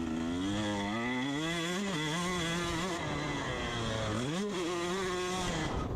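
Dirt bike engine running under throttle, its pitch climbing over the first couple of seconds, then holding, with a quick dip and rise about four and a half seconds in.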